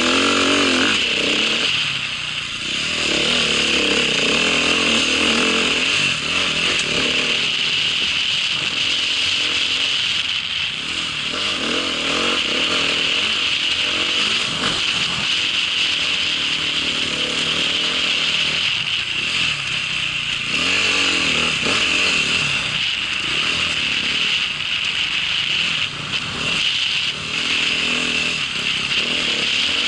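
Small engine running hard, its revs rising and falling again and again, over a steady high whine.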